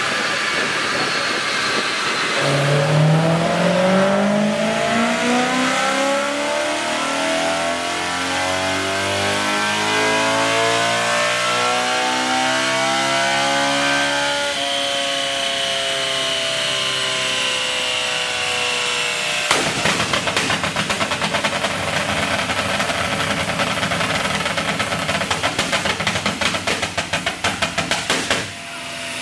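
BMW M3 with a Dinan exhaust doing a wide-open dyno pull: the engine revs climb steadily for about twelve seconds and then hold near the top. About twenty seconds in, on lift-off, the exhaust breaks into a rapid string of pops and crackles that fades away near the end.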